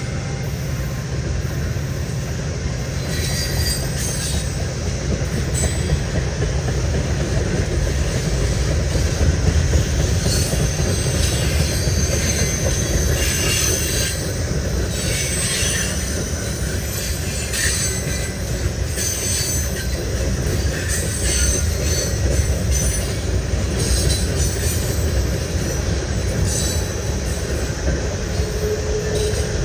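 Canadian National freight cars rolling past, with a steady rumble of steel wheels on rail and intermittent high-pitched wheel squeal.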